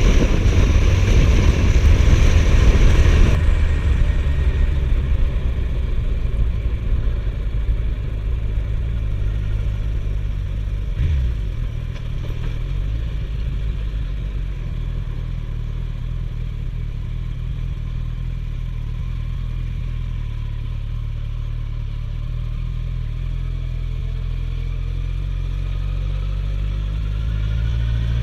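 Suzuki GSF1250S Bandit's inline-four engine running on the road. Loud wind rush drops away about three seconds in, leaving a steady low engine note that settles, with one knock midway, and the engine revs rise again near the end as the bike pulls away.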